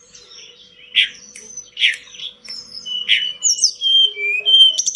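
A tledekan gunung (songbird) singing: sharp chirps about a second apart, then a quicker run of clear whistled notes that slide up and down. A faint steady hum runs underneath.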